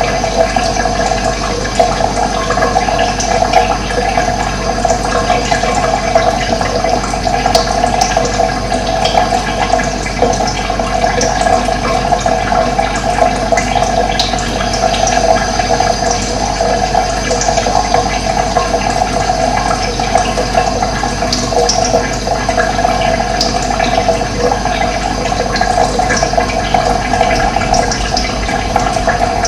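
Running water rushing steadily, a dense continuous flow with no breaks.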